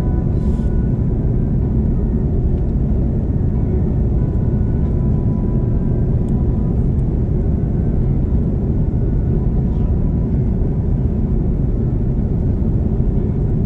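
Steady, even low rumble of an Airbus A330-300's GE CF6-80 engines and airflow, heard from inside the passenger cabin.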